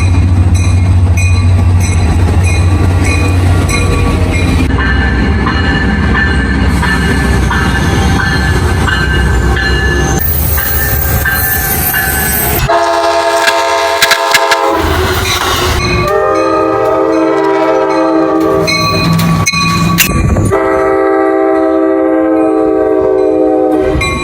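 A train rolls past with a steady rumble and wheel noise. From about halfway the locomotive's air horn sounds a chord in three long blasts.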